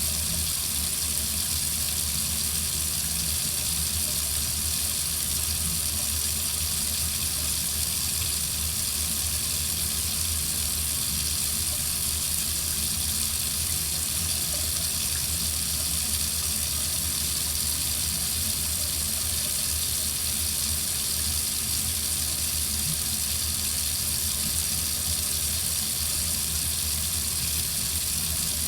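Water running steadily from a faucet into a sink, an even hiss without change.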